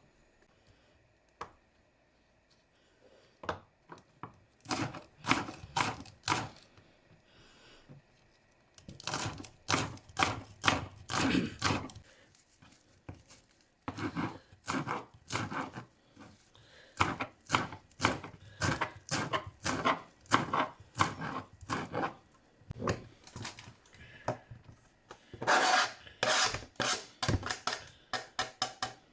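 Knife chopping on a wooden cutting board: several runs of quick strokes, about four a second, with short pauses between runs.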